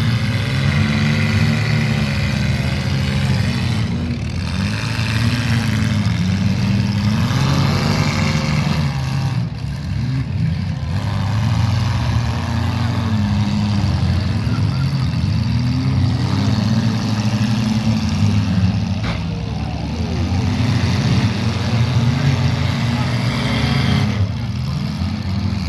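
Several compact-car engines running together in a demolition derby, revving up and down over and over as the cars accelerate and ram each other.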